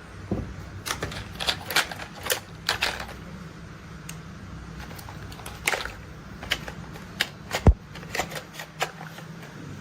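Hard plastic toy parts clicking and clacking irregularly as toy construction vehicles are handled, with one louder knock near the end, over a faint steady low hum.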